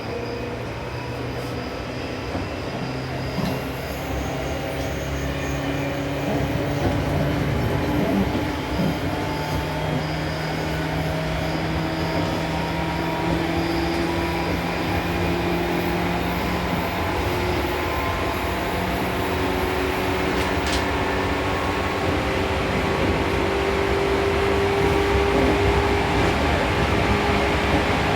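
Seibu New 2000 series electric train running between stations, heard from inside the car: rail and running noise with a traction-motor whine whose tones slowly rise in pitch as the train gathers speed.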